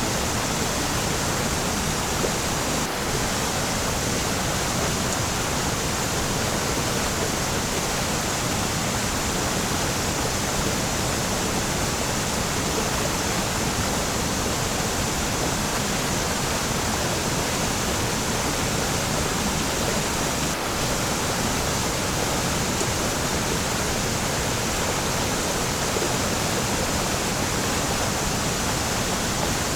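Waterfall: a steady, even rush of falling water, with two faint momentary breaks, one early on and one about two-thirds through.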